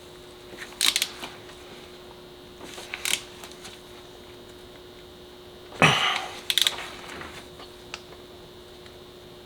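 Scattered metallic clicks and clacks of a ratchet and socket working a spark plug tight, with a louder cluster of clacks a little past halfway, over a faint steady hum.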